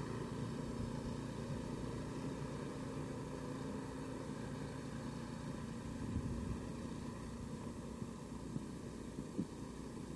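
An engine running steadily at an even pitch over a background hiss.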